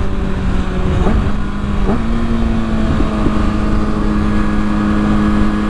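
Kawasaki ZX-6R inline-four with a Yoshimura exhaust running at a steady cruise, its note wavering briefly a few times in the first three seconds, under heavy wind noise on the helmet microphone.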